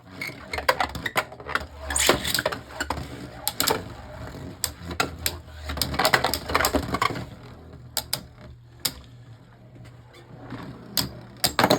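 Beyblade Burst tops spinning and clashing in a plastic stadium: a steady whir under many sharp clicks and knocks as they strike each other and the walls, ending in one top bursting apart.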